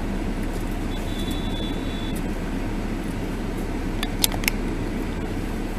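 Steady running and road noise of a vehicle, with a short high beep about a second in and a couple of sharp clicks about four seconds in.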